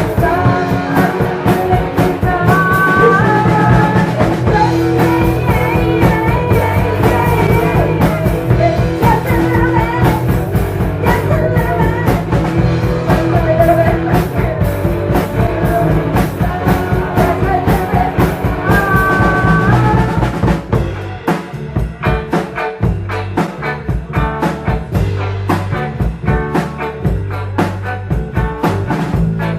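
A rock band playing live, with drums, bass and guitar. About 21 seconds in, the music thins out to mainly bass and drums.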